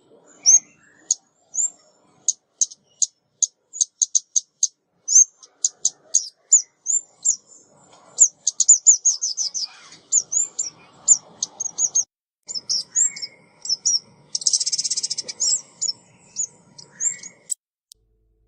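Female ốc mít songbird calling in quick, high, short chirps and twitters, thickening into rapid chatter a few times and giving a buzzy rattle about two-thirds through, then stopping shortly before the end. It is a recorded hen call of the kind played to lure the birds in.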